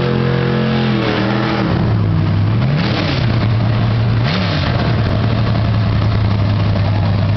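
Drag car engine settling from revs down to a loud idle over the first second or so, then blipped twice with quick throttle revs about three and four and a half seconds in, and idling steadily after.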